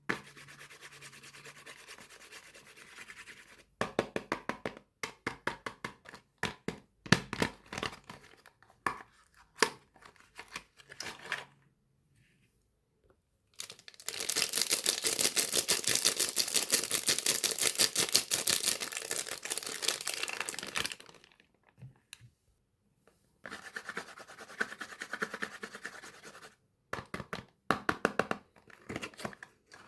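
Soap bars being unwrapped by hand: packaging crinkling and tearing in short spells, with a loud stretch of rapid, dense rustling for several seconds in the middle, then more crinkling near the end.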